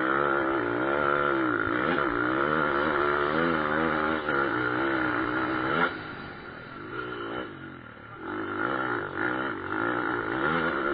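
Pit bike engines revving hard, the pitch rising and falling with the throttle; the loud engine drops away suddenly about six seconds in, leaving quieter engines.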